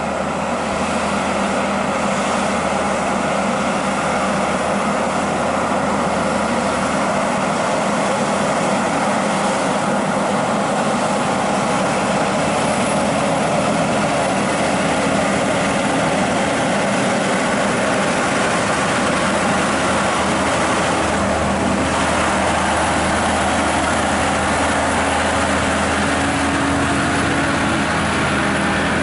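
Volvo FH16 550 hp truck's inline-six diesel engine running steadily under heavy load as the truck crawls up a steep climb, carrying an estimated 65 to 70 tonnes.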